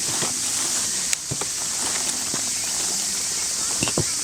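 Wood campfire crackling, with scattered sharp pops, a few stronger ones about a second in and near the end, over a steady high hiss.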